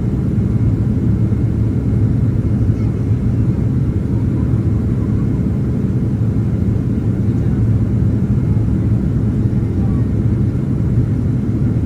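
Steady low rumble of engine and airflow noise inside the cabin of a Boeing 767-300ER airliner in flight.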